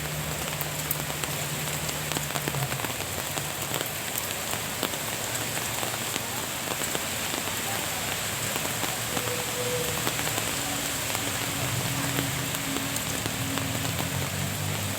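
Steady rain falling on leaves and surfaces, with many individual drops ticking. A low steady hum is heard for the first few seconds and comes back in the second half.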